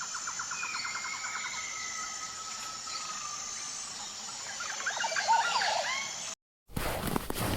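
Birds singing and calling: long whistled glides and a fast trill, then a burst of quick rising chirps, over a steady high-pitched tone. Near the end it cuts to a moment of silence, then a loud rushing noise sets in.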